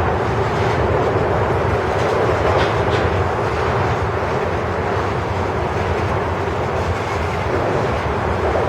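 Freight cars of a Norfolk Southern grain train rolling past: a steady rumble of steel wheels on rail, with a couple of faint clicks a little before the middle.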